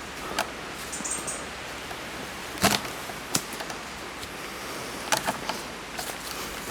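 Steady rush of wind through trees, with scattered short knocks and rustles of handled gear or steps. The loudest knock comes about two and a half seconds in, and a few more follow around five seconds.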